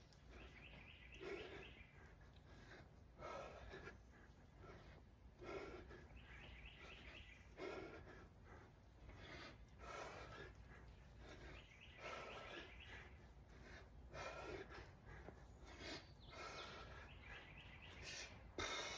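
A person breathing hard and rhythmically during kettlebell snatches: a forceful, slightly wheezy breath about every two seconds, in time with the swings of the 52 lb kettlebell.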